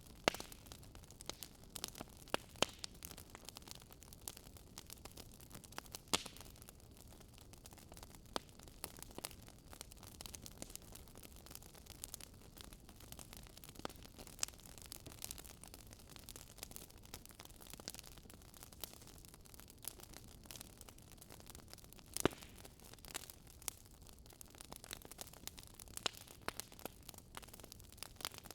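Wood fire in a fireplace crackling: irregular sharp pops and snaps over a soft steady hiss, a few pops louder than the rest.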